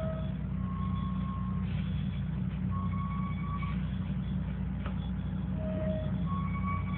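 Truck engine running steadily, a low drone, with faint held tones coming and going over it.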